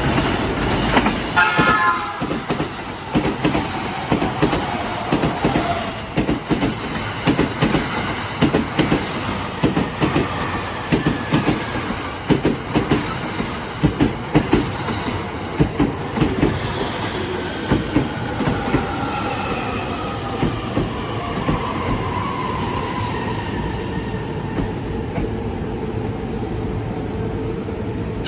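Tokaido Line E233 and E231 series electric train sounding a short horn about a second in, then rolling in over rail joints with a run of regular wheel clacks. Later its motor whine falls in pitch as it brakes, and it settles into a steady hum as it comes to a stop.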